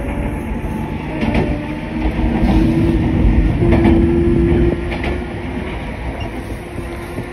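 JR West 103 series 3500 electric train running, heard from inside the front car: steady rumble and a motor-and-gear hum that grows louder and a little higher from about two seconds in, then eases off just before five seconds. Faint clicks of the wheels over rail joints come about once a second.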